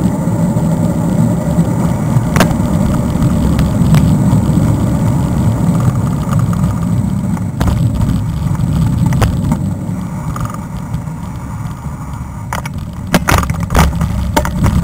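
Wind rumbling on a helmet-mounted action camera's microphone while a mountain bike rolls down a trail. Sharp clicks and knocks from the bike rattling over bumps come now and then, several close together near the end.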